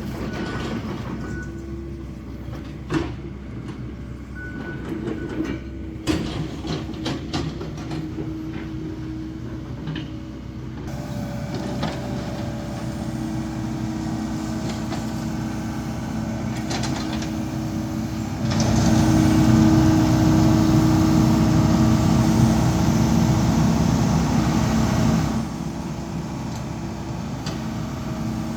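Excavator's diesel engine running steadily, with a few sharp knocks about three and six seconds in. For several seconds in the second half the engine runs louder and heavier as the machine works harder, then drops back.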